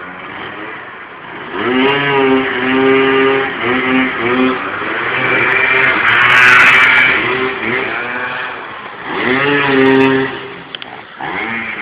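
Motorcycle engine revving up and holding at high revs, pitch wavering as the throttle is worked, then revving up again about two-thirds of the way through.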